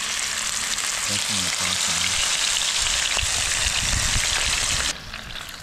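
Crumb-coated fish fillets sizzling as they are laid into a hot oiled frying pan, a steady hiss of frying that drops off sharply near the end.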